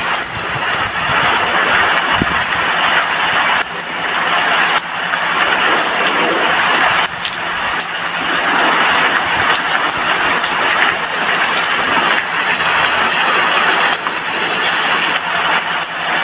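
Rain falling steadily at an apartment window: a loud, even hiss with a few brief dips.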